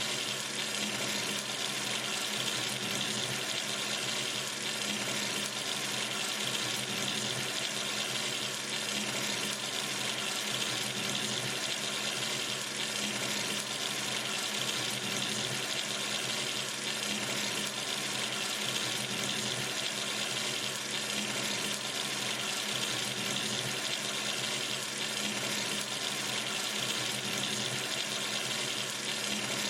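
Sink tap running steadily, an even stream of water splashing into the basin with no change in flow.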